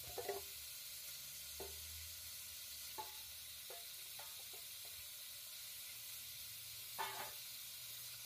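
Marinated chicken pieces frying in hot oil in a nonstick pan. A steady sizzle runs throughout, with a few scattered pops and crackles; the loudest comes about seven seconds in.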